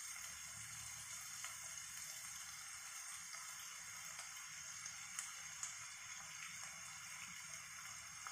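Chopped onions and garlic sizzling faintly and steadily in hot oil in a wok over a full gas flame, with a couple of small clicks about five seconds in.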